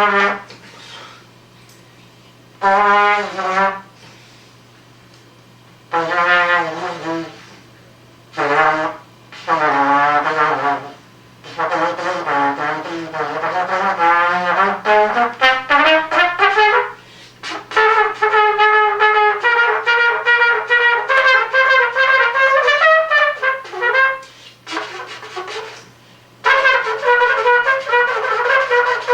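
Unaccompanied trumpet improvising in short phrases separated by pauses, with wavering, bent notes and a long upward slide, then a stretch of quick repeated notes. A steady low hum sits underneath.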